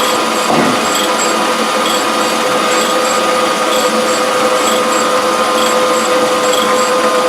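Surface grinder running: the abrasive wheel grinds a metal block under a trickle of coolant water, a steady whine over a grinding hiss, with short high chirps repeating about twice a second.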